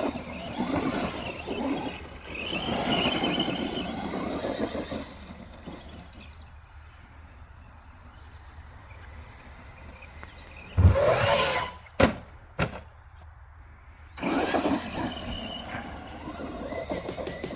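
Electric RC short course trucks (ARRMA Sentons) running, their brushless motors whining up and down in pitch as they speed up and slow. A louder burst about eleven seconds in is followed by two sharp knocks, and the whine picks up again near the end.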